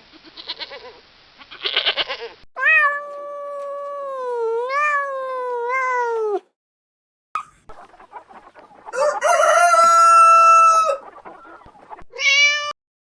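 Rooster crowing: a long wavering crow, then after a short gap a second crow and a brief final call. A shorter wavering bleat-like animal call comes just before the first crow.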